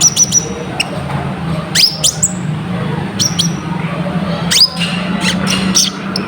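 Little spiderhunter (konin) calling: sharp, quick high chirps that sweep steeply in pitch, repeated every second or so, over a steady low hum.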